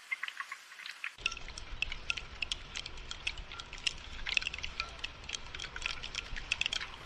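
Rainfall heard as many separate drops falling, with a low rumble joining in about a second in.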